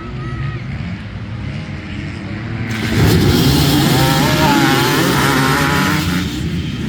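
Motor vehicle engines running; about three seconds in one gets much louder, its pitch wavering up and down as it revs or passes close, then drops back about three seconds later.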